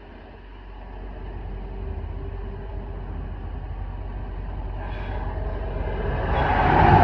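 A motor vehicle's engine and tyre noise growing steadily louder as it draws near, then running close by near the end.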